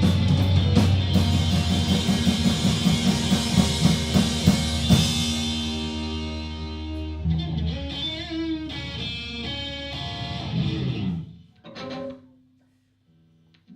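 Live rock band with electric guitars, bass and drum kit playing loudly, then thinning out to ringing, wavering guitar notes. The music stops abruptly about eleven seconds in, followed by one short last hit.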